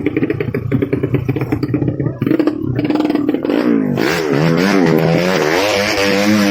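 Motorcycle engine running with a rapid clattery pulse, then from about halfway revved up and down repeatedly, its pitch swinging rise and fall several times.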